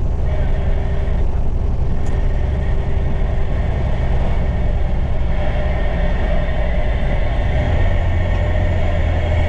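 Dump truck's diesel engine running under way with a steady low rumble, which deepens and grows louder about eight seconds in.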